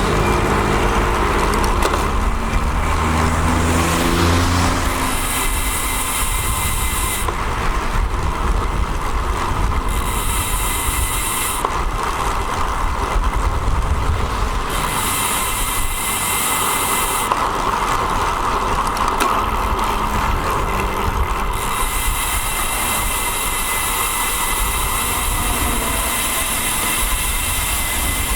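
Wind and road noise on a road bike's onboard camera while riding. A motor vehicle's engine is heard alongside during the first five seconds.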